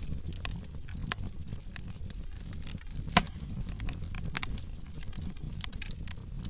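Wood fire in a fireplace crackling, with a low steady rumble of flames and scattered sharp pops, the loudest about three seconds in.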